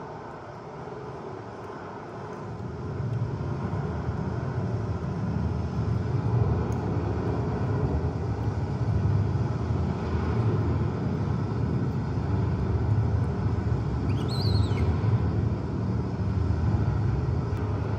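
Heavy rainstorm, a steady low rumbling roar that swells about three seconds in. A brief high squeak comes near the end.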